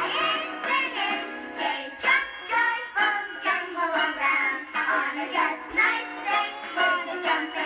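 A group of children singing an upbeat song with instrumental accompaniment, played from a 1970s 45 rpm vinyl record with slight distortion.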